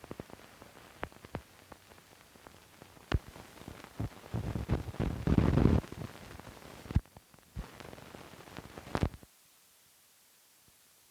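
Optical film soundtrack running out after the music: scattered sharp clicks and pops over a hiss, with a louder crackling patch in the middle. It cuts off suddenly near the end, leaving only a faint steady hiss.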